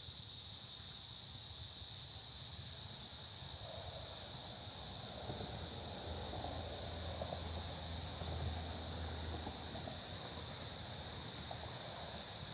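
Steady high-pitched insect chorus. From about four seconds in, faint irregular crackles of dry twigs and leaves catching fire.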